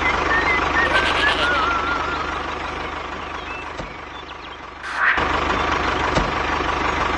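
Mini tractor's motor running steadily with a low hum, with faint bird chirps over it. The sound fades about four seconds in, then comes back abruptly near five seconds.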